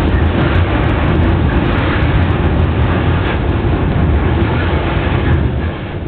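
Freight train running on the rails, heard from on board: a steady, loud rumble of wheels and wagons that eases a little near the end.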